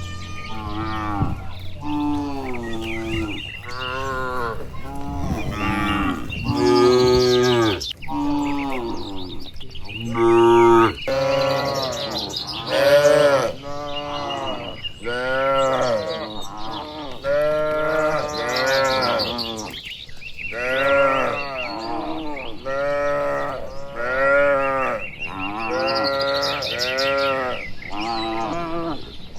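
A herd of cattle mooing, one call after another with hardly a pause, the calls overlapping and answering each other. Each moo lasts about a second and rises and falls in pitch.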